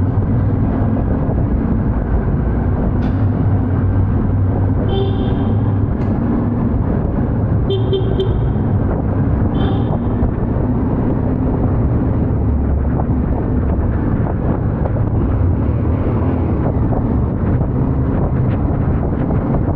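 Yamaha Ténéré 700's parallel-twin engine running steadily while riding, with three short horn toots about five, eight and ten seconds in.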